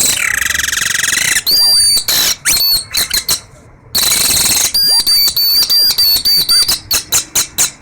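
A boy imitating a canary's song with his mouth: high warbling whistled trills, then a string of quick chirps. After a short pause near the middle comes another trill, then a fast run of clipped repeated notes.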